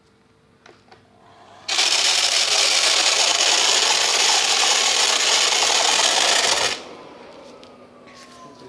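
Dibea vacuum cleaner switched on about two seconds in, running loudly with a rattle for about five seconds, then switched off, its motor winding down with a faint falling whine. The rattle is the loud running whose cause is being traced.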